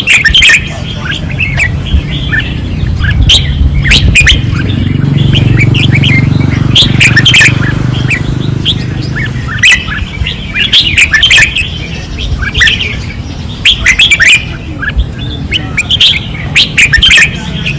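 Red-whiskered bulbuls singing intensely, one short bright phrase after another with no real pause. A low steady rumble runs underneath through the middle stretch.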